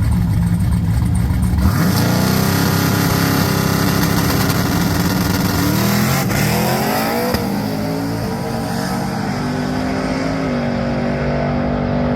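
Drag cars launching and running hard down a no-prep strip, with engines at high revs and tyre noise. About six seconds in, the engine pitch climbs and drops sharply, then settles. This fits the car spinning its tyres and the driver pedaling it.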